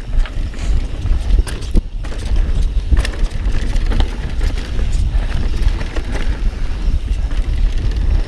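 Mountain bike descending a rough trail at speed: a steady low rumble of wind on the action-camera microphone, with tyres on dirt and rock and sharp clatters and knocks from the bike over bumps.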